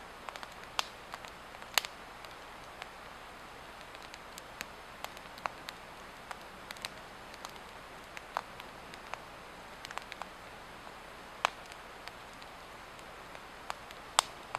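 Swedish torch, an upright split log burning, crackling with irregular sharp pops over a steady hiss.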